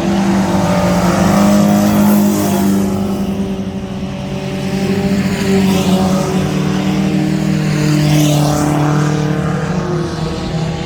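Several racing mini trucks' engines running hard together, their pitch rising and falling as they come past.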